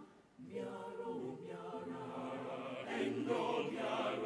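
Background music of a choir singing slow, held notes, starting about half a second in after a brief silence.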